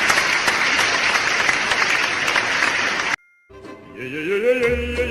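Applause sound effect that cuts off suddenly about three seconds in. After a short gap, background music starts with a rising melody, and a bass beat joins near the end.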